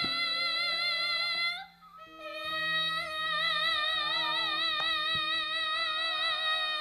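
A young girl sinden singing a Javanese song in a high voice: long held notes with wide vibrato, one breaking off about one and a half seconds in and the next starting about half a second later, over steady instrumental accompaniment.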